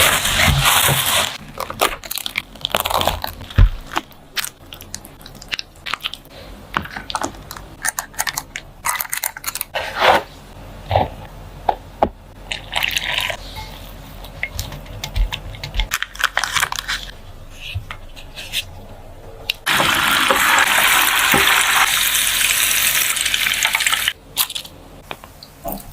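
Kitchen handling sounds during dessert making: scattered clicks, taps and light knocks of utensils and containers, with a steady rushing noise for about four seconds near the end.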